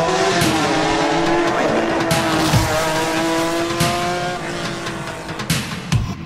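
Racing car engine revving up in steps, each rise breaking off and starting again lower, like gear changes, with tyre squeal over music that has occasional deep drum hits.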